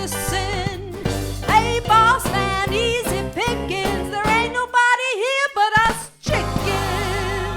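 Swing-style band with a lead singer and backing vocals nearing the end of the song. About five seconds in the bass and drums drop out, leaving the voices, then after a short break the band lands on a long held final chord.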